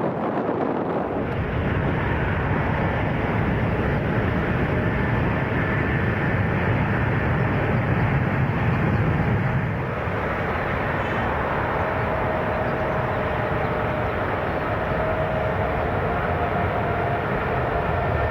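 Boeing 777-300ER's GE90 engines at takeoff thrust: a steady jet roar with faint whining tones above it. The deep rumble eases about ten seconds in.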